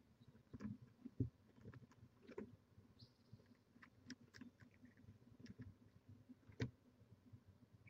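Near silence with faint scattered taps, clicks and scuffles of barn owls moving about at the nest, and a faint short hiss about three seconds in.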